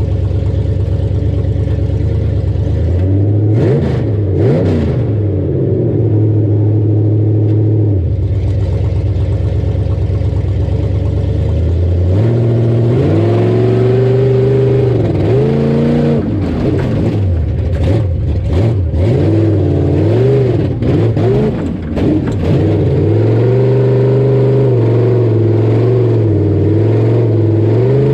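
Rough-truck Ford Bronco engine running loudly and revving up and down repeatedly under load. It holds steady at first, swings up and down with scattered clatters from about halfway, then holds at higher revs near the end.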